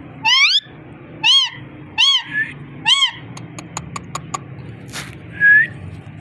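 A pet parrot calling: a rising call, then three short arched, meow-like calls about a second apart, followed by a string of sharp clicks and a short whistle near the end.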